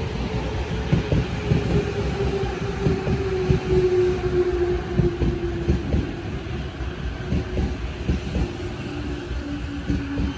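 Commuter electric train slowing along the platform. Its wheels clatter steadily over the rails while its motor whine falls steadily in pitch as it brakes.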